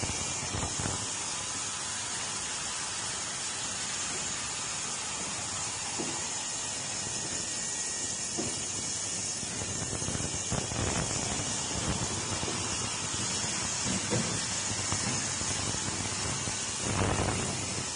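Industrial ultrasonic washing machine running: a steady high-pitched hiss from the cleaning tank, with a few soft knocks along the way.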